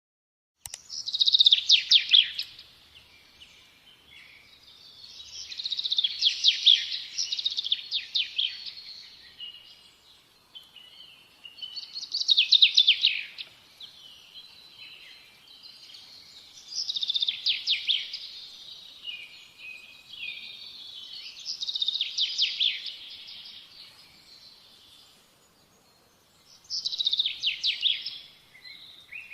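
A small songbird singing: six high, rapid trilled phrases, each one to a few seconds long, repeated about every five seconds.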